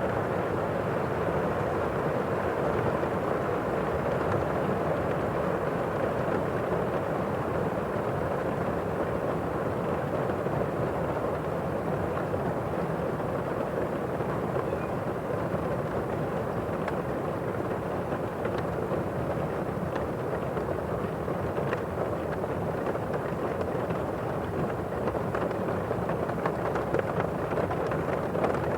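Heavy rain heard from indoors, a steady muffled rush with little high hiss, with a few faint sharper drops or ticks in the second half.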